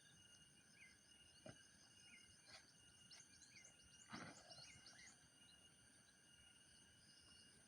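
Faint night forest ambience: steady insect trilling, a short call repeating about every second and a quarter, and a brief flurry of high chirps. Two campfire pops cut through, the louder about four seconds in.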